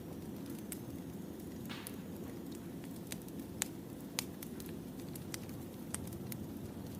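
Firewood burning in a campfire: a steady low rush with scattered sharp crackles and pops, two louder pops a little past the middle.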